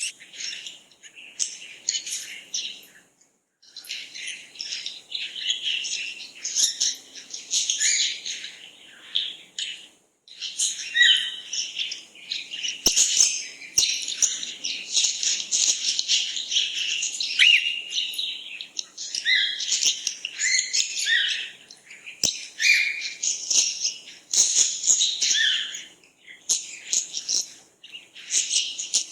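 Many small birds chirping and twittering together, high, quick calls overlapping in a dense chorus, broken by a few brief complete silences.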